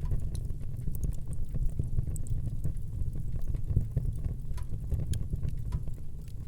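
Wood fire burning: a steady low rumble of flames with frequent small, irregular crackles and pops.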